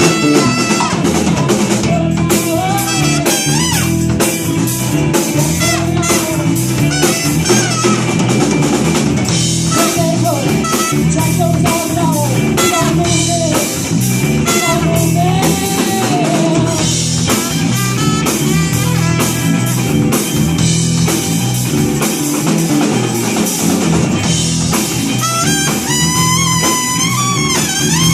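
Live rock band playing an instrumental passage: a steady drum-kit beat with rimshots, bass and guitar, and a lead melody line that bends and wavers in pitch over the top.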